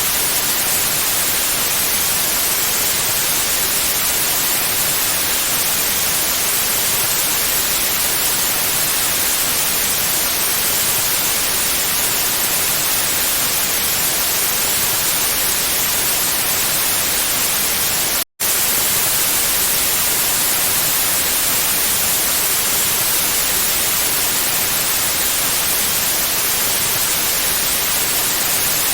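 Steady white noise: an even, loud hiss with no tones or rhythm, brightest in the highs. It cuts out to silence for a split second about eighteen seconds in, then resumes unchanged.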